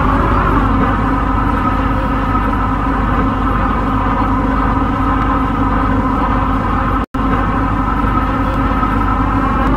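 MTR C-Train electric multiple unit running at speed, its traction motors giving a steady whine of several held tones over the rumble of the wheels on the track. The tones shift slightly in pitch in the first second, then hold steady. The sound cuts out for a split second about seven seconds in.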